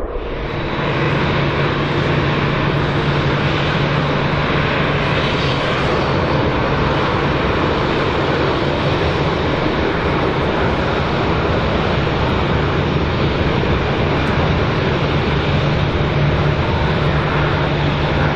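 Airbus A330 twin-engine jet airliner landing, its engines giving a loud, steady rushing noise with a low hum that holds steady throughout.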